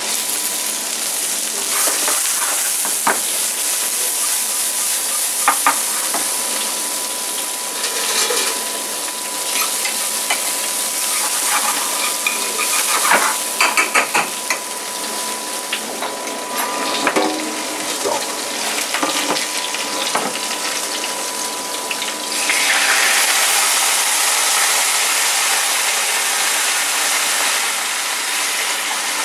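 Diced shallots sizzling in hot oil in a stainless steel frying pan, stirred with a spoon that clicks and scrapes against the pan. About two-thirds of the way through, a louder, steady hiss takes over as the pan of braising fennel steams hard.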